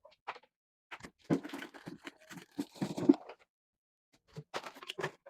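Irregular rustling and knocking of household objects being handled, in two spells of a couple of seconds each.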